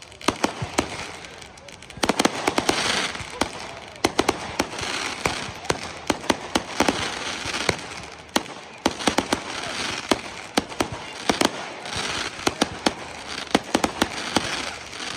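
Consumer fireworks going off in a display: many sharp bangs and cracks in quick succession over a continuous hiss, which grows louder about two seconds in.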